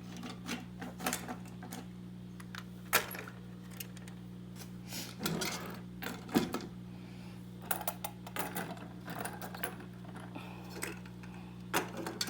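Light clicks and clatter of toy train set pieces being handled and fitted together, with a few louder knocks, over a steady low hum.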